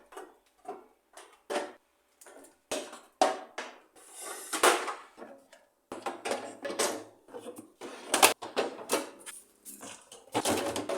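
Refrigerator being emptied for cleaning: irregular knocks and clatters of containers, shelves and drawers being handled, with a longer sliding swish about four seconds in and a sharp clack about eight seconds in.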